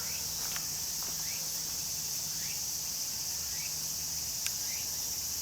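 Outdoor insect chorus: a steady high-pitched trilling, with short rising chirps repeating about once a second and a couple of faint clicks.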